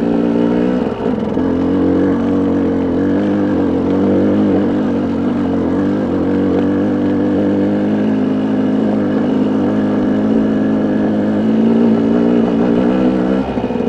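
Ram pickup's engine running steadily at low, near-idle revs in four-wheel drive, pulling up a steep rocky dirt road.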